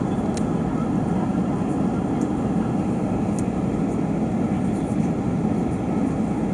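Steady cabin noise of an Airbus A380-800 in flight: an even, low rush of engine and airflow noise heard from an economy seat.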